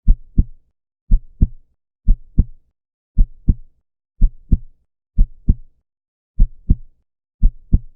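Heartbeat sound effect: a steady lub-dub of paired deep thumps, about one pair a second, eight pairs in all.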